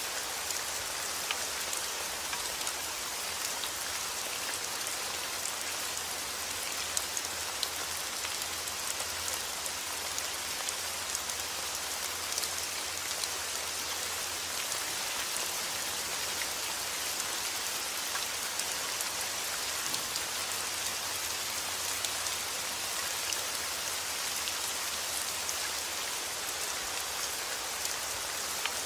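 Heavy rain falling steadily, a constant hiss with many separate drops ticking on a hard surface.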